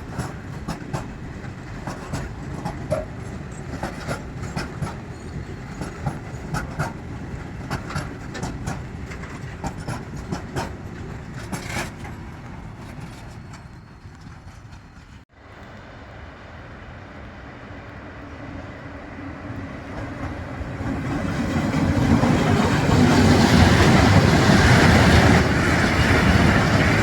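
Train passing, its wheels clicking over the rail joints in quick sharp strokes that fade away. After a sudden break about halfway through, the rumble of a train builds up loud again toward the end.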